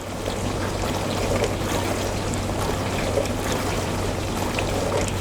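Dishwasher circulation (wash) pump running during a wash cycle: a steady motor hum under the rush and splash of circulating water. This is the pump's normal running sound.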